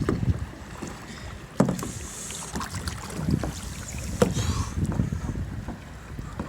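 Kayak paddling, with paddle splashes and wind rumbling on the microphone; two sharp knocks, about a second and a half in and again just past four seconds.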